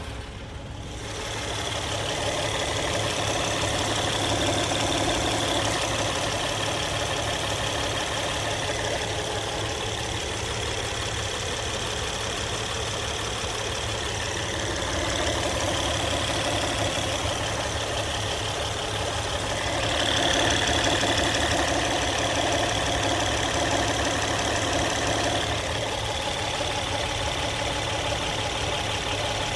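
Engine idling steadily with a newly replaced hydraulic timing tensioner, running without the tensioner noise it had before the repair.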